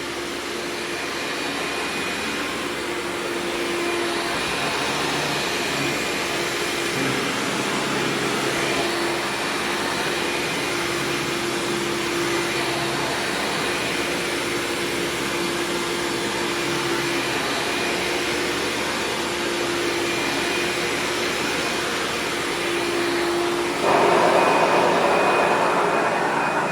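Hoover Supreme PowerDrive vacuum cleaner running steadily while vacuuming. Near the end its sound becomes louder and fuller.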